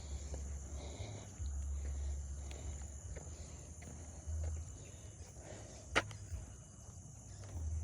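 Outdoor ambience of faint steady high-pitched insect buzzing, with a low uneven rumble of wind on the microphone and one sharp click about six seconds in.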